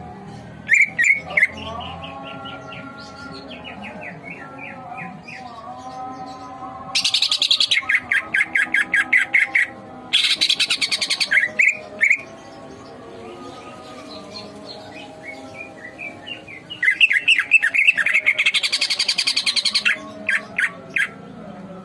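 Green leafbird (cucak ijo) singing: softer chirps and whistled phrases broken by three loud runs of very fast, harsh rattling chatter, about seven, ten and seventeen seconds in.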